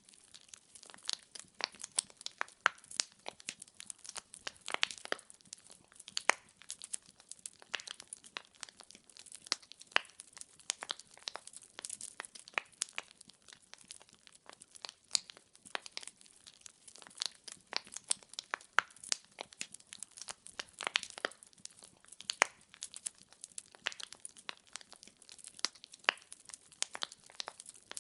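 Wood fire crackling: a dense, irregular run of sharp pops and snaps from burning logs over a faint hiss.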